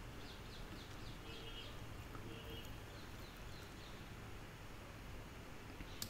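Faint bird chirps in the background: a run of short, high, falling chirps in the first few seconds over a quiet steady hum of room noise. A click or two of a computer mouse near the end.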